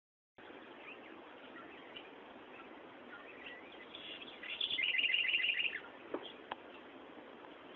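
A bird chirping: a quick run of about eight or nine high chirps a little past the middle, over faint background hiss, followed by two short clicks.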